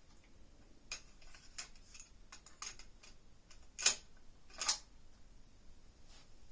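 Cassette deck transport controls and mechanism clicking: a series of sharp mechanical clicks over faint high hiss, the two loudest about four and five seconds in.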